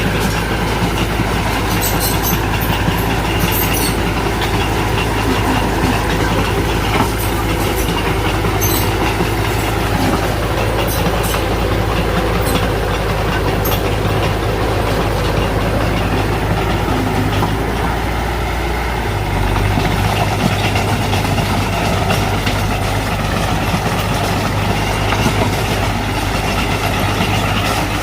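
Small crawler bulldozer's diesel engine running steadily while working, with clanking and squeaking from its steel tracks. The engine note shifts a little about two-thirds of the way through.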